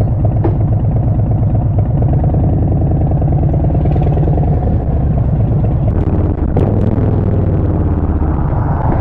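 Harley-Davidson Street Bob 114's Milwaukee-Eight 114 V-twin running loud through a Vance & Hines Short Shots full exhaust, with a steady pulsing rumble. About six seconds in its pitch shifts and a few sharp clicks are heard.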